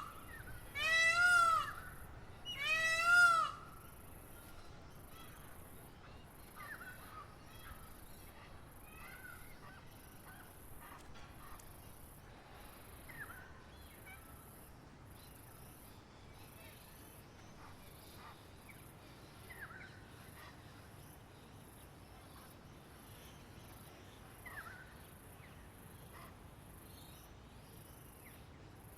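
An animal gives two loud, drawn-out calls in the first few seconds, each rising and then falling in pitch. After that only faint, scattered bird chirps remain, over a high insect buzz pulsing about once a second.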